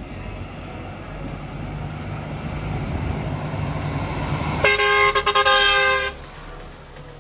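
Heavy vehicle engine rumbling and growing louder, then a horn blares for about a second and a half with a few very short breaks before cutting off, leaving a quieter rumble.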